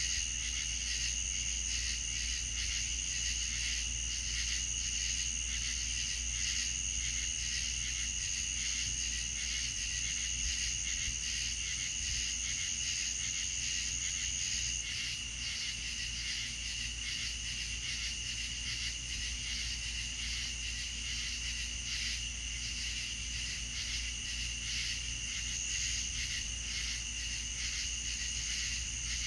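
Chorus of crickets and other insects trilling steadily in several pitches. The highest trill drops out about halfway through and comes back near the end, over a low steady hum.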